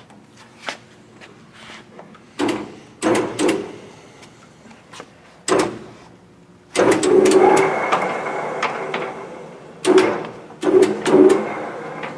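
Yang engine lathe's controls being worked: a string of metal clunks and knocks, with a louder sound about seven seconds in that starts suddenly and fades over about three seconds.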